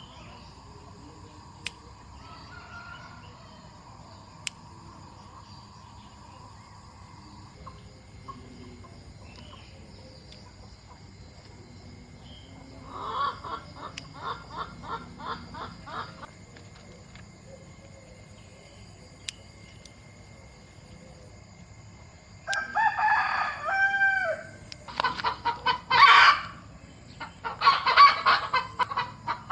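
Domestic chickens clucking in quick runs of short calls, with a rooster crowing once for about two seconds roughly two-thirds of the way in.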